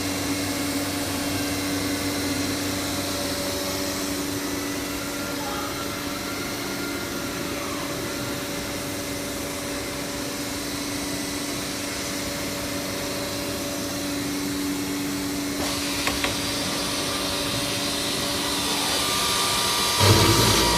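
CNC router with an ATC spindle running steadily: a machine hum and whine with a few steady tones. The sound changes character about three quarters of the way in, and a short, louder low burst comes near the end.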